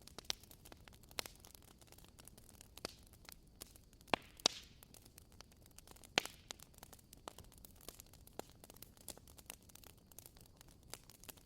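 Wood fire crackling: irregular small pops and snaps over a soft hiss, with a few sharper pops, one with a short hiss after it about four and a half seconds in.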